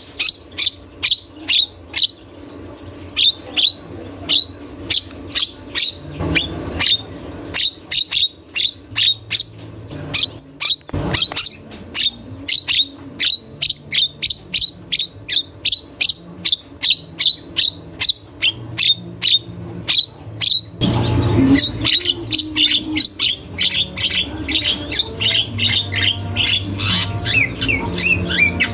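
Javan myna (jalak kebo) calling without pause: a long series of sharp, repeated calls at about two to three a second, giving way near the end to a denser, varied chattering song.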